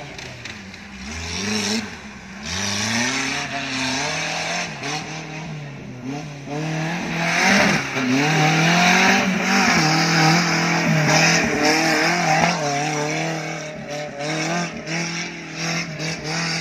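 Suzuki Jimny off-road 4x4 engine revving hard in repeated rising surges as it is driven over a dirt track, with a loud rushing hiss that peaks midway.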